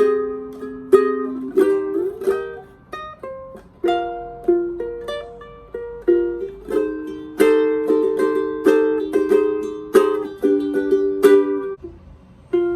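Caramel CT102A zebrawood tenor ukulele with Aquila strings, played fingerstyle solo: picked melody notes over ringing chords. The tone is bright. The notes break off briefly near the end.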